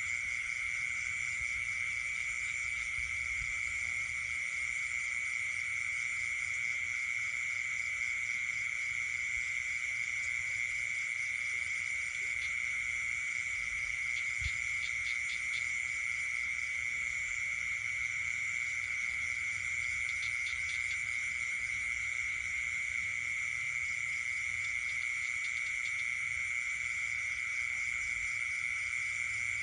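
Night chorus of frogs and insects: a steady, unbroken high trill over several layers of fast pulsing calls, with short bursts of rapid pulsed calls a little before halfway and again about two-thirds through.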